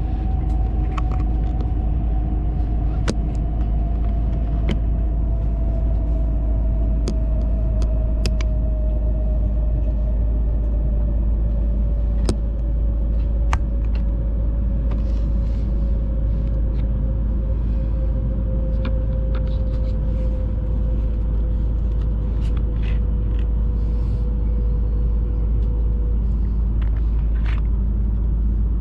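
Steady interior running rumble of a Hayabusa Shinkansen train at speed, with a thin whine slowly falling in pitch that fades out near the end and scattered light clicks and knocks from the car.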